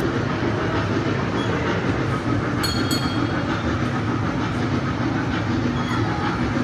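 Small mall ride-on train running with a steady rumble and rattle of its motor and wheels. A couple of brief high squeals come about two and a half seconds in.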